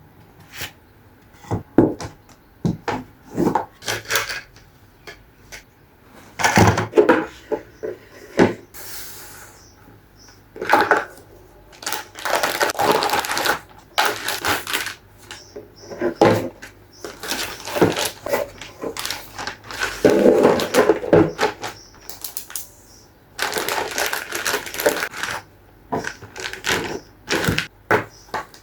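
Irregular household handling noise: clicks, knocks and bursts of rustling or scraping as objects are moved and set down.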